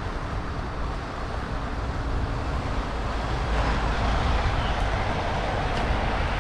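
Steady noise of road traffic, growing somewhat louder about halfway through as vehicles come closer.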